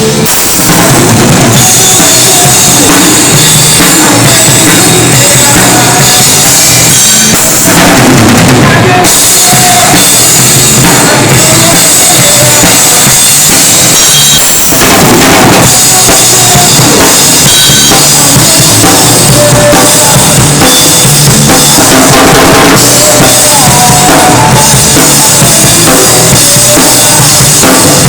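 Loud rock music driven by a full drum kit, with bass drum and snare hits running through a dense band sound.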